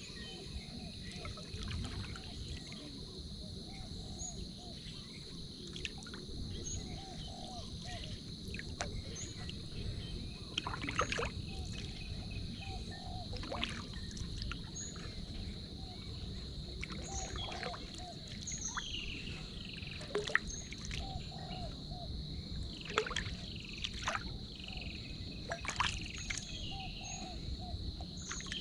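Outdoor insect chorus, a steady high-pitched drone, with scattered bird chirps, low rumbling movement noise and occasional sharp knocks or splashes.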